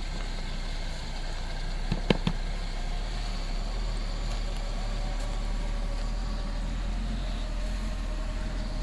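Steady wind rumble on the microphone, with a couple of sharp clicks about two seconds in.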